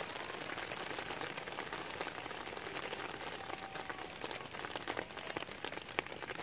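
Steady rain pattering on a tarp, with many scattered sharp ticks and drips that come thicker near the end.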